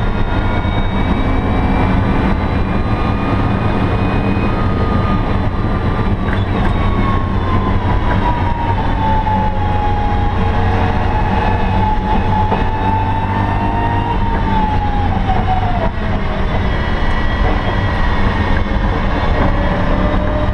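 BMW E92 M3's V8 engine running hard at speed, heard from inside the stripped race cabin over road and wind noise. Its note sinks slowly about halfway through and again near the end, with no sharp gear changes.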